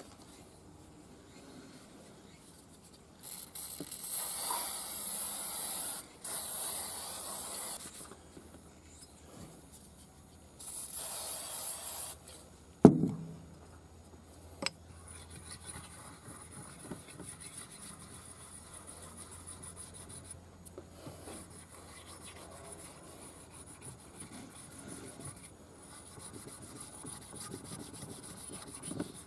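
Workshop work on a motorcycle cylinder head: three bursts of spraying hiss, then a single sharp knock, then quiet steady rubbing and scraping.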